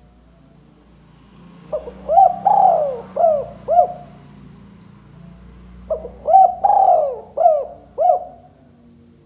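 Spotted dove cooing: two phrases a few seconds apart, each a short note followed by about four longer coos.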